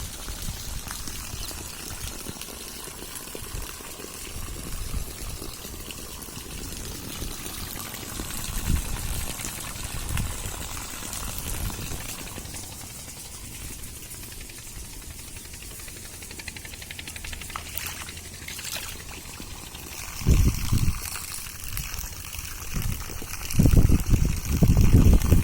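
Heavy rain falling with water pouring and running off, a steady hiss. Near the end come a few loud low rumbles.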